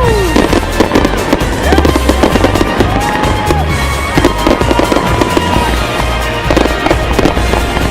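A dense barrage of consumer fireworks going off continuously: rapid crackling and popping over low booms, with several whistles gliding up and down in pitch in the first half.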